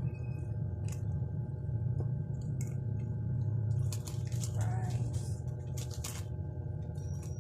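Takeout food packaging rustling and crinkling in short bursts as it is opened and handled, over a steady low hum.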